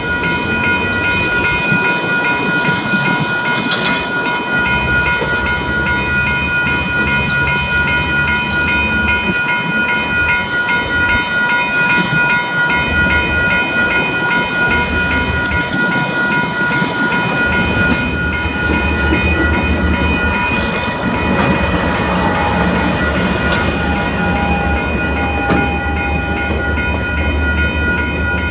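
KiwiRail DL-class diesel-electric locomotive rumbling past at low speed hauling a log train, its wagons then rolling by over the rails. Level crossing alarm bells ring steadily throughout.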